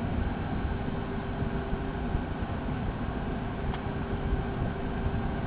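Steady cockpit noise of a Beechcraft Premier I holding on the ground with its twin Williams FJ44 turbofans at idle: an even low rumble with a faint steady hum, and a single click about three-quarters of the way through.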